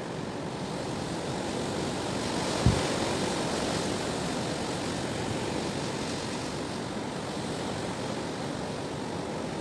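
Strong wind blowing, a steady rushing noise, with a sudden low thump about three seconds in.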